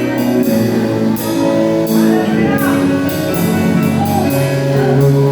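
Church worship music: held chords that change slowly, with cymbal strikes and light drums.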